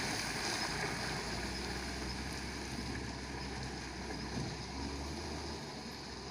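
Hino diesel truck engine running steadily with a low hum, slowly fading.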